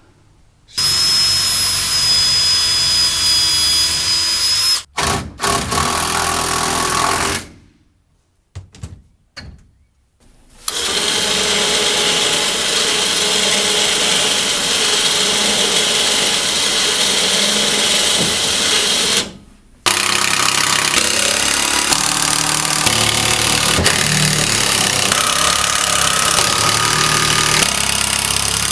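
A power drill running in long runs: two shorter ones in the first seven seconds, then two of about eight to nine seconds each, with brief pauses between.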